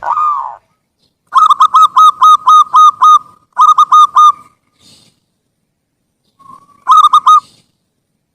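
Zebra dove (perkutut) cooing. A single arched note opens, then a quick run of about eight short hooked coos, a pause, four more, and a short run of three near the end.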